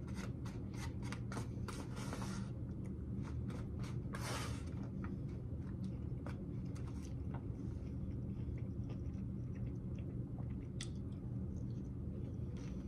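Close-mic chewing and crunching of a raw salad of beets, cucumbers and onions: wet mouth clicks, thickest in the first few seconds, with a couple of louder crunches, over a steady low hum.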